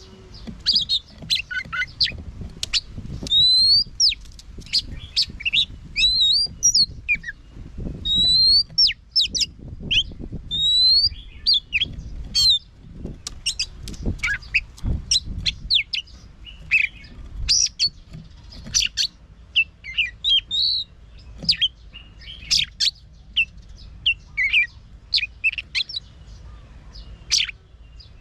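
Oriental magpie-robin singing a fast, varied song of sharp chirps and clear whistles, several of them rising slurs. Occasional low dull thuds sound underneath.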